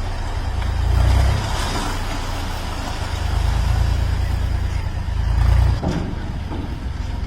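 Low diesel engine rumble from heavy machinery at a loading site, swelling louder twice, about a second in and near the end, before easing off.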